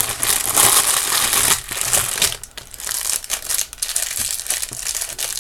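Crinkly packaging being rummaged through and handled, loud and dense for the first second and a half, then a run of lighter, irregular crackles.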